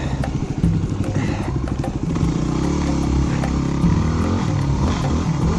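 Off-road motorcycle engine running under the rider, its pitch rising and falling as the throttle is worked, loudest in the low range.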